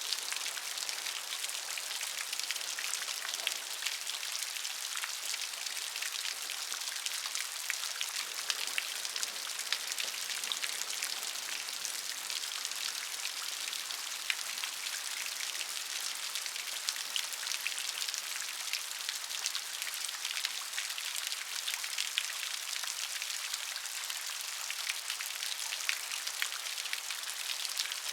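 Steady rain: a dense, even patter of drops with many fine, close drop clicks, unchanging throughout.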